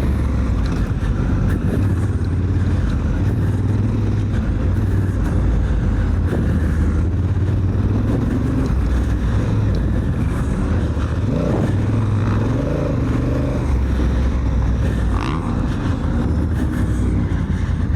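Honda Africa Twin's parallel-twin engine running steadily while being ridden, its pitch rising and falling a few times with the throttle.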